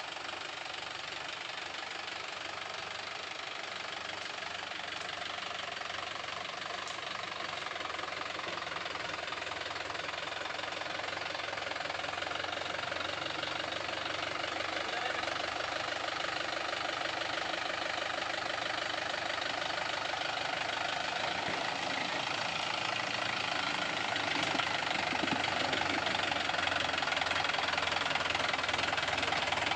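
Mahindra Yuvo 415 DI tractor's diesel engine running steadily, slowly getting louder.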